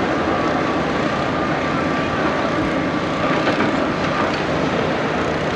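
Heavy diesel construction machinery, an excavator drilling rig, running steadily, with a faint steady whine.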